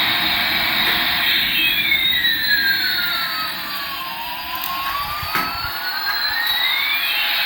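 Steady jet-engine-like whooshing from a toy aircraft. Over it, a tone glides down for about two and a half seconds, then back up over the next three.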